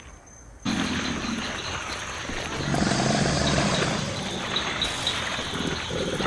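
Night-time outdoor ambience: a steady high insect trill with evenly spaced chirps. Under it, from about a second in, is a loud, rough, low rumbling.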